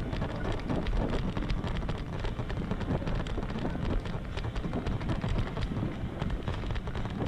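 Wind buffeting the microphone with a dense crackle and rattle, as from a mountain bike riding over rough ground.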